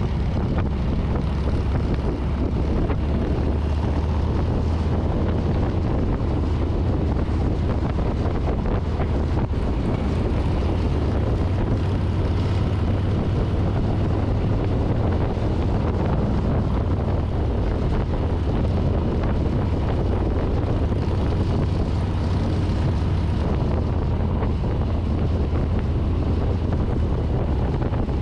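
Harley-Davidson Street Bob's Milwaukee-Eight 114 V-twin running steadily while riding at speed, with wind buffeting the handlebar-mounted microphone.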